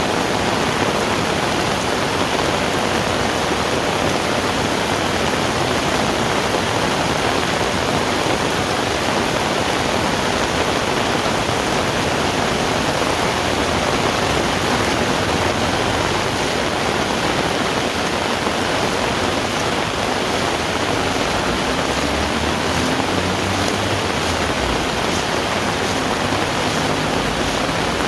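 Heavy rain falling steadily, a dense unbroken hiss. A low rumble comes and goes over the last several seconds.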